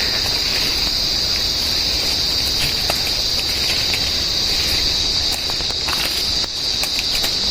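Cicadas in rainforest, a steady high-pitched drone, with scattered crackles and snaps.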